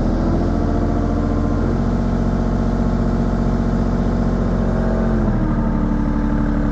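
Mini excavator's diesel engine running steadily at a slightly raised throttle while it warms up, heard from inside the cab. Its note shifts slightly about five seconds in.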